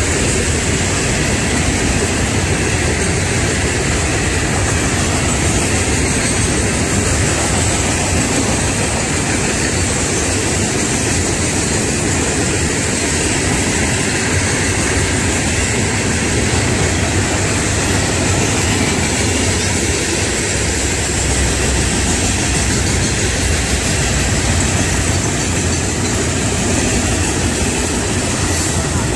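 Florida East Coast Railway freight train of hopper cars rolling past close by: a loud, steady rumble of steel wheels on the rails, with no let-up.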